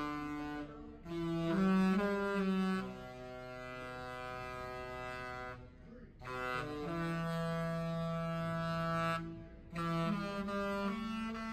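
Cruise ship's horn sounding a tune: long held multi-tone chords, each lasting a few seconds, changing pitch, with short breaks between them, as the ship sails.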